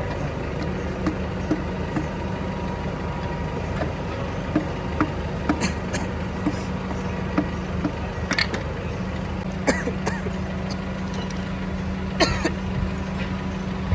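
A steady mechanical hum, as of an engine running, with repeated sharp metallic clinks of tools and parts being handled.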